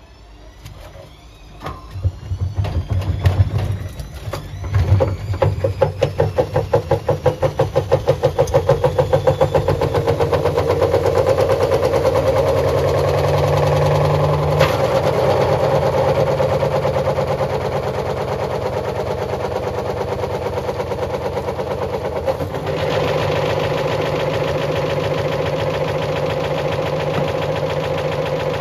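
Bosch washing machine drum spinning up: heavy rhythmic thumping that quickens as tones rise in pitch, settling after about ten seconds into a steady high-speed run, with the motor note changing twice.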